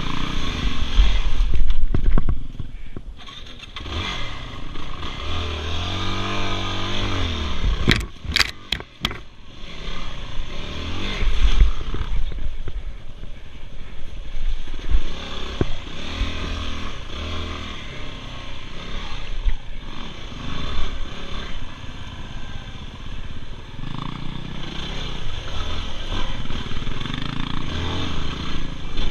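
Dirt bike engine running and being revved hard, its pitch rising and falling repeatedly as the throttle is twisted open and shut. A few sharp clicks or knocks come about eight seconds in.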